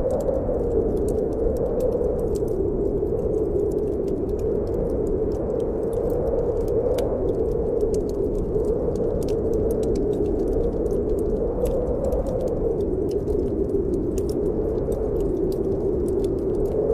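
Snowstorm wind howling steadily with a wavering low moan, over a fireplace's wood fire crackling and popping in short sharp clicks.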